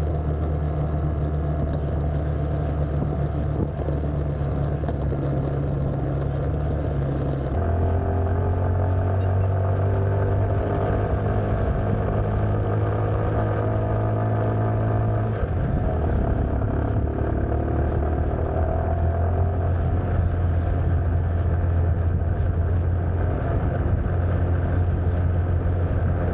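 Motorcycle engine running steadily while riding, with road and wind noise; the engine note changes about seven seconds in and again about fifteen seconds in.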